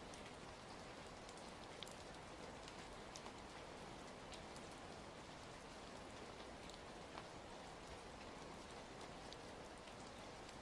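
Ambient rain and fireplace recording: steady rain hiss, with faint scattered pops and crackles from a burning fire, a few sharper ones standing out.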